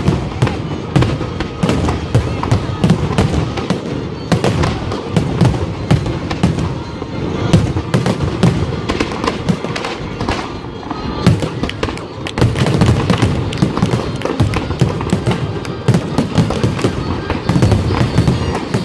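Fireworks display: shells bursting overhead in quick succession, many sharp bangs overlapping one another.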